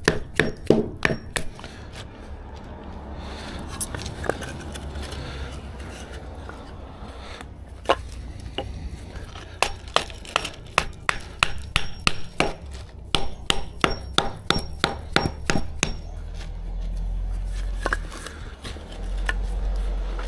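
Hammer blows on timber: a few quick strikes at the start, single knocks now and then, then a long run of about three blows a second. A low rumble takes over near the end.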